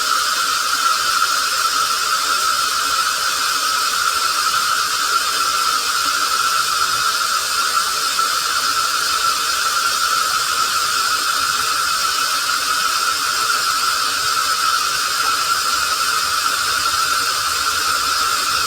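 Running water put through a voice-changer effect: a steady hissing rush with a constant whine through it, unchanging throughout.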